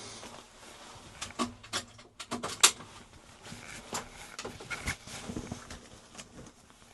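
Scattered, irregular clicks and knocks of things being handled, the loudest sharp knock about two and a half seconds in.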